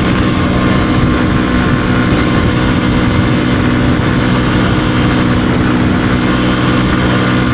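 Kawasaki KLX150E's small single-cylinder engine running at a steady highway cruise, its pitch holding even, over a steady rush of wind.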